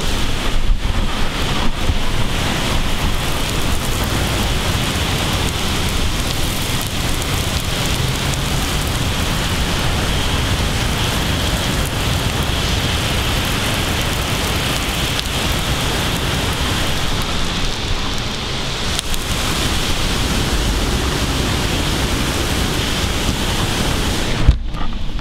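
Heavy thunderstorm downpour heard at an open window screen, a steady, even rush of rain. It drops away sharply near the end.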